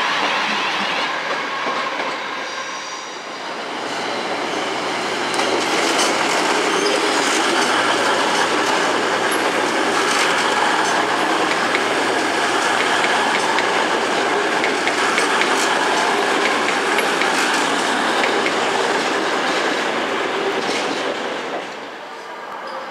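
Virgin Class 390 Pendolino electric train passing close by: a steady rush of wheels on rail with rapid clicks as the wheels cross rail joints, fading out near the end. In the first couple of seconds the sound of an earlier electric unit dies away before the Pendolino arrives.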